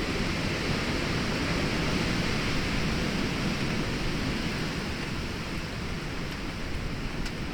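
Storm rain and wind, a steady rushing noise that swells a little a couple of seconds in and eases slightly toward the end.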